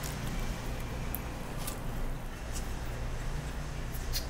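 A person chewing food and licking his fingers: a few soft, wet mouth clicks scattered over a steady low hum.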